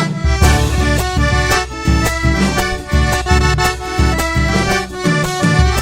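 Live Argentine folk band playing an instrumental interlude of a chacarera, with an accordion carrying the melody over bass and a steady percussive beat.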